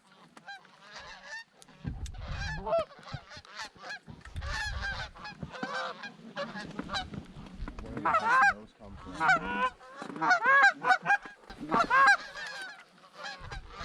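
Geese honking: a flock giving many short overlapping honks, louder and denser from about eight seconds in as the birds come closer.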